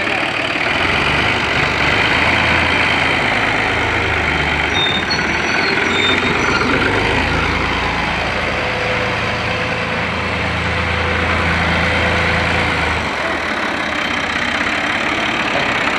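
New Holland Ghazi 65 hp tractor's diesel engine running steadily, its low note shifting slightly a few times.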